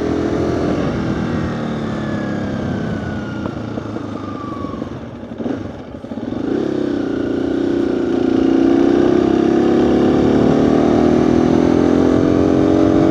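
Motorcycle engine heard from a microphone inside the rider's helmet while riding, with some low wind rumble. The engine note falls over the first few seconds and dips about halfway through, then picks up and holds louder and steadier.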